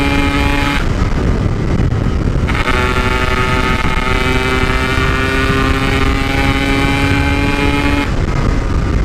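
Yamaha RX-King 135 cc single-cylinder two-stroke running hard at steady revs through a stock-style packed muffler, under a constant rush of noise. The engine note drops out about a second in, comes back at a steady pitch shortly before three seconds, and fades again near the end.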